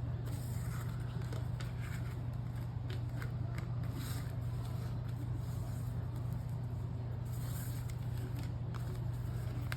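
Paper pages and ribbon being handled, with soft rustling and short scraping sounds as the ribbon is drawn through the punched holes of a junk journal. A steady low hum runs underneath.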